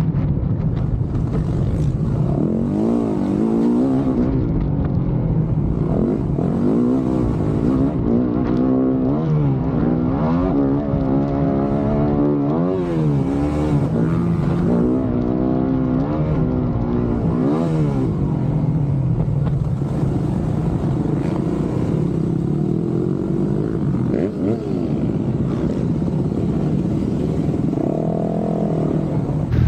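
Dirt bike engines revving, their pitch rising and falling again and again, with more than one engine heard at once at times.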